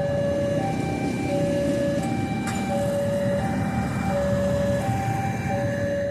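Railway level-crossing warning alarm sounding a repeating two-tone high-low signal, each tone lasting about two-thirds of a second, over a low rumble.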